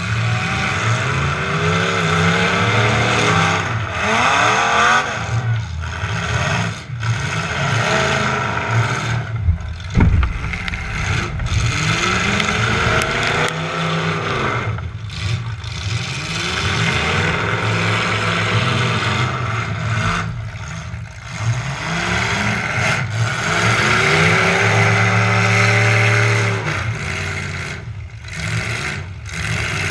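Demolition derby truck engine revving up and down again and again, with one hard crash about ten seconds in.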